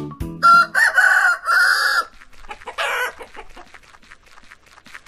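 A rooster crowing once, a loud call in several parts, then a short squawk and a long run of quick, soft clucks from a chicken.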